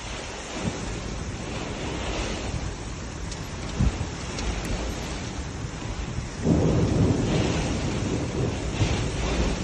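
Rain in a thunderstorm, with thunder rumbling that grows louder about six and a half seconds in, and a single thud near four seconds.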